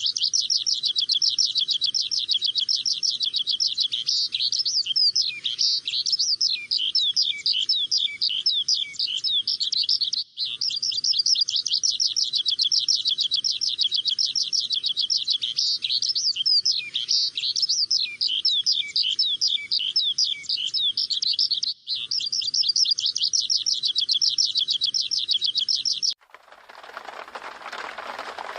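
Many small birds chirping at once in a dense, unbroken chorus of rapid high chirps, which drops out briefly twice. Near the end the chirping stops abruptly and a different, noisier sound follows.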